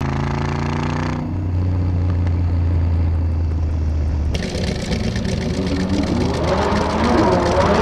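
Car engine running with a steady low hum, changing about four seconds in to a rougher engine sound whose pitch rises toward the end as the car accelerates.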